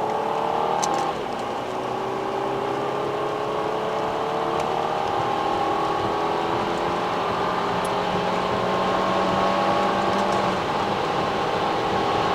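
A car engine accelerating under load. There is a gear change about a second in, then the pitch climbs slowly and steadily as the revs build.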